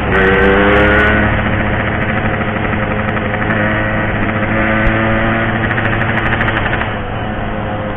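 Yamaha RX-King's 135cc two-stroke single-cylinder engine running while being ridden. Its pitch eases down in the first second as the throttle comes off, then holds nearly steady at a cruise, with road noise under it.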